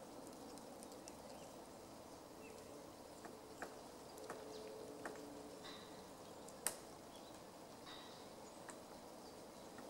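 Black woodpecker tapping and chipping at wood: a few scattered, irregular sharp taps, the loudest a little before seven seconds in, over faint steady background noise with a few short, faint bird chirps.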